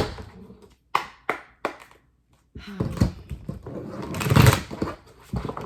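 A deck of tarot cards being handled and shuffled: a few sharp taps, then a longer papery rustle that swells near the end.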